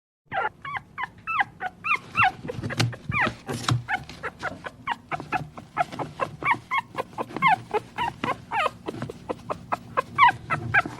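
Dog whimpering and yipping in a quick run of short, high calls, most falling in pitch.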